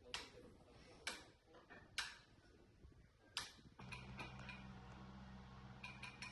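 Four sharp, short knocks about a second apart, then a low steady hum starts and a quick run of lighter clicks follows near the end.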